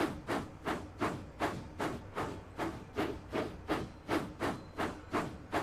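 Steam locomotive chuffing at a steady pace, with even exhaust puffs about three a second.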